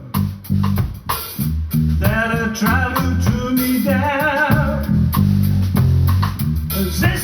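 A live band playing a song: a singer's voice over guitar, bass guitar and drums. The band plays short, choppy hits at the start, then the singer holds long notes with vibrato over the full band.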